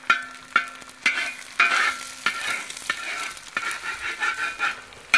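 Metal spatula tapping and scraping on a steel disco (plow-disc cooker) while eggs, sausage and potatoes sizzle in oil. Sharp taps come about every half second to a second at first, then the scraping and sizzling grow denser and louder from about a second and a half in.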